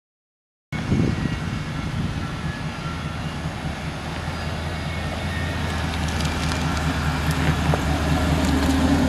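Silence for under a second, then the 2011 Trans Am Hurst Edition concept car's engine running as the car drives past, growing gradually louder as it comes near.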